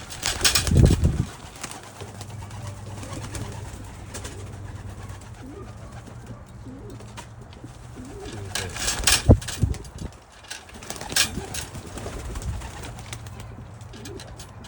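Domestic pigeons cooing, with sudden loud bursts of noise about a second in and again around nine and eleven seconds in.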